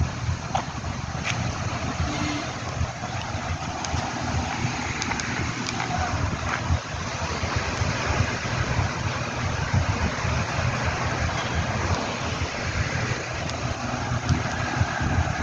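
Wind buffeting the microphone, with a steady outdoor hiss behind it.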